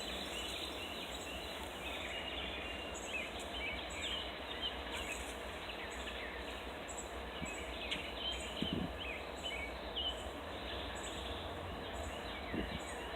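Birds calling and chirping over a steady low background rumble, with a faint high chirp repeating about twice a second.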